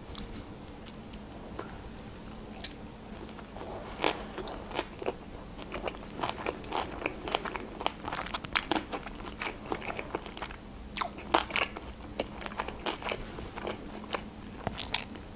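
A person chewing a mouthful of sushi roll close to the microphone: after a quiet start, a run of irregular wet clicks and crunches begins about four seconds in.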